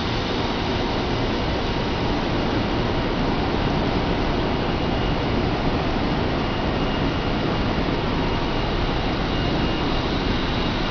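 0 Series Shinkansen train starting to pull out of the platform: a steady rumble and running noise as it begins to roll, with a faint high tone growing slightly near the end.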